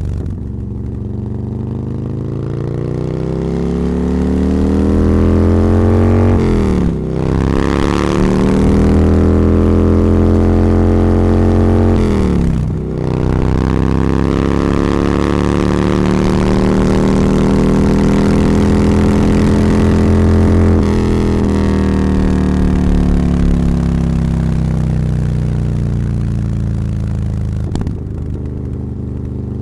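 A vehicle engine accelerating on a winding road. Its pitch climbs, then drops sharply at gear changes about 7 and 13 seconds in, rises gently again, and eases off a little after 20 seconds.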